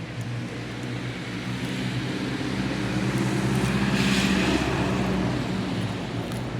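Steady engine hum, with a hiss that swells to its loudest a little past the middle.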